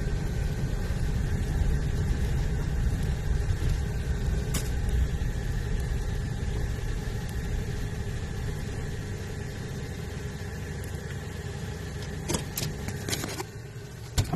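Car engine running with a steady low rumble that slowly eases off, then a few sharp clicks near the end.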